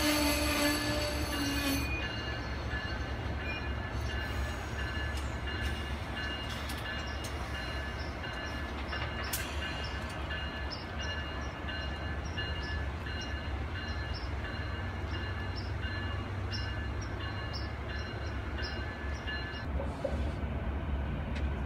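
Amtrak passenger coaches rolling past at speed: a steady rumble of steel wheels on rail with a faint high wheel squeal. The tail of the locomotive's horn drops slightly in pitch and fades out in the first two seconds.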